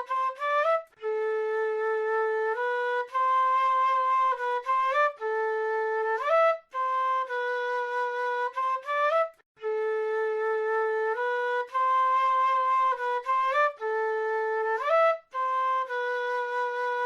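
South American flute playing a slow solo melody: long held notes, each phrase ending in a quick rising run of notes, with short breaks between phrases.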